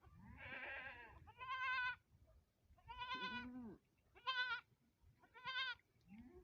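A farm animal calling out in a series of about five short, wavering, high-pitched cries, each lasting under a second.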